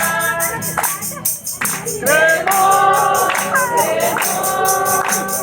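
A group singing a Spanish-language gospel chorus, with a tambourine shaking a steady beat.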